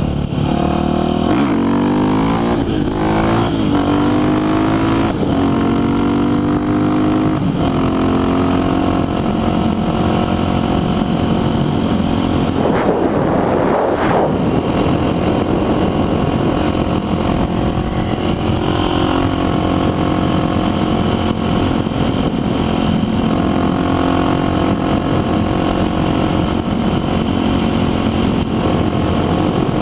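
Motorcycle engine accelerating hard through the gears, its pitch climbing and dropping back at each shift about five times, then holding steady at high revs while cruising, with wind noise over it. A brief whoosh about halfway through.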